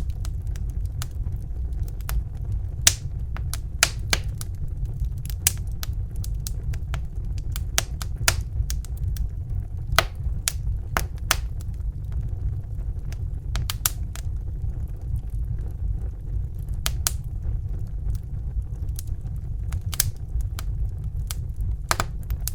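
Bunsen burner flame giving a steady low rush, with the irregular sharp pops and crackles of a wood fire over it.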